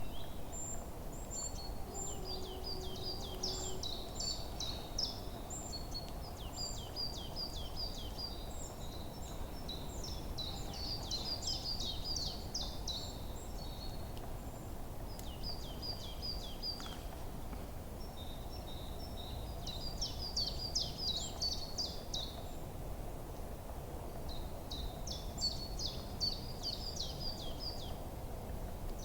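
Forest songbirds singing in bouts of quick, repeated high chirping notes, a new phrase every few seconds, over a steady low background hiss of outdoor ambience.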